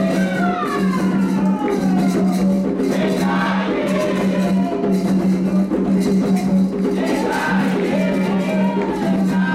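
Candomblé ritual music: atabaque drums beating a fast, continuous rhythm for Oxum's dance, with voices singing a chant over it.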